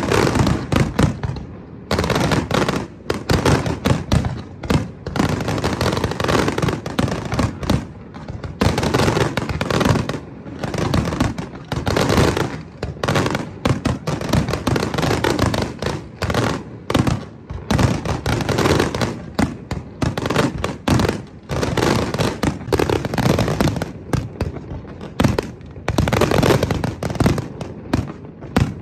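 A fireworks display going off in a dense, continuous barrage of bangs and crackles, with many overlapping explosions and no pause.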